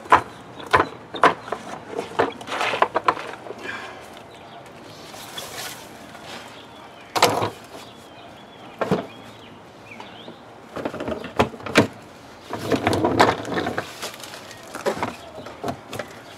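Irregular knocks, clunks and scraping of a shop vac's canister and lid being handled as it is emptied of wet dirt, with no motor running.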